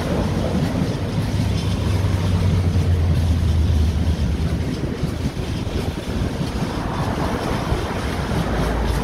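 Freight train of bogie tank wagons rolling past, a steady rumble of wheels on rail that swells a second or two in, with wind buffeting the microphone.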